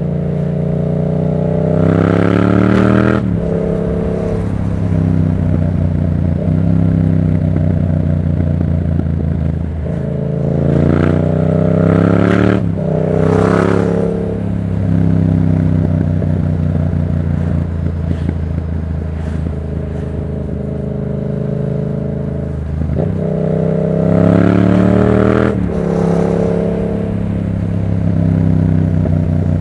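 Yamaha MT-07's 689 cc parallel-twin engine through an aftermarket Black Widow exhaust, accelerating hard three times. The pitch rises, then drops sharply at each upshift: near the start, about ten to fourteen seconds in, and again about twenty-three to twenty-six seconds in. Between the pulls it runs at a steadier, lower pitch while cruising.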